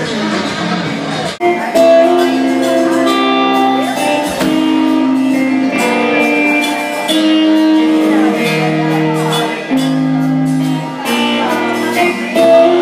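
Live rock band music with guitar and singing, in held chords that change every second or so; the music breaks off abruptly about a second and a half in and a different passage starts.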